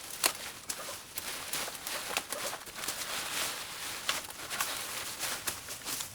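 Dense, irregular crackling and rustling of overgrown vines and brush being cleared, with many sharp snaps scattered through it.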